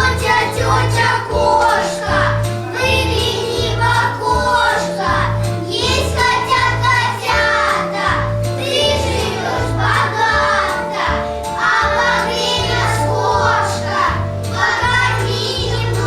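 Children singing a song over instrumental accompaniment with a steady, repeating bass line.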